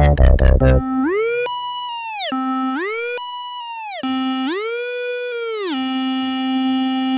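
Electronic music breakdown: the beat drops out just under a second in, leaving a lone synth tone that holds a low note, slides up about an octave and back down twice, with a short higher note between the slides.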